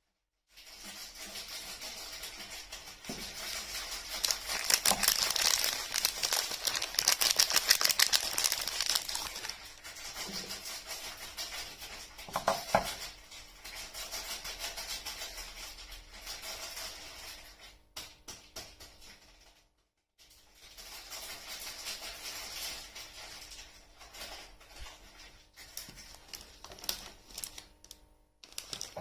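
Soap wrapping being handled and unwrapped, a dense run of small crinkling crackles and clicks, broken by a brief silence about two-thirds through before the crinkling resumes.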